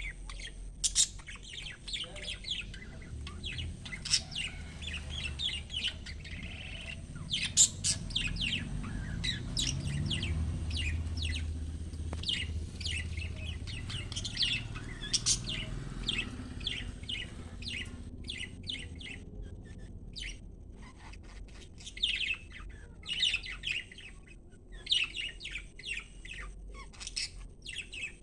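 Budgerigars chirping and chattering, with many quick, high chirps in irregular runs. A low rumble sits underneath in the middle stretch.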